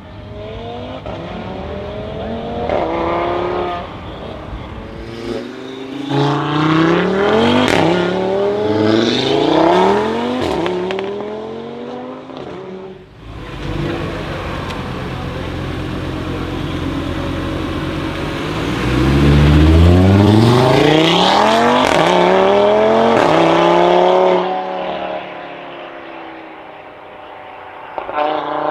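Audi RS3 8V's turbocharged five-cylinder engine, fitted with a Milltek downpipe and its secondary catalytic converter removed, accelerating hard with revs rising through several upshifts. Midway it holds steady revs for several seconds, then pulls hard through the gears at its loudest before fading.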